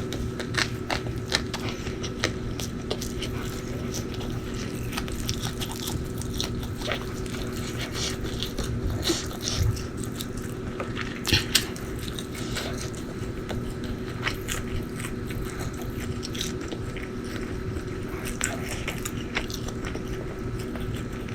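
Close-miked mukbang eating: irregular biting, crunching and wet chewing of food, over a steady faint hum, with a couple of louder crunches about nine and eleven seconds in.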